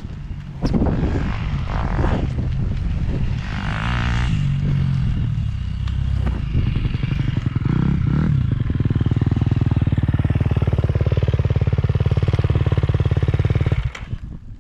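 Motocross bike engine running and revving, its pitch shifting up and down, then rising about eight seconds in and held at high revs before it cuts off suddenly near the end.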